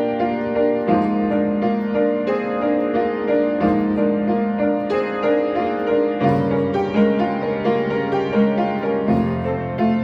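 Solo piano playing a slow minimalist neoclassical piece on a roughly 100-year-old upright piano that is a little out of tune: a continuous flow of repeated notes over a bass note that changes every few seconds.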